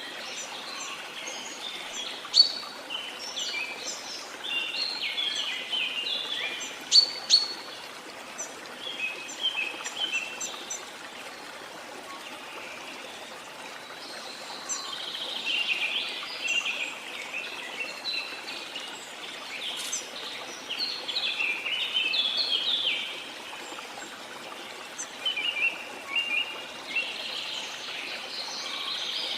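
Several birds singing and chirping in bouts over the steady rush of a waterfall. The birdsong is busiest in the first ten seconds and again in the second half, with a few sharp, loud chirps early on and a lull in between where only the water is heard.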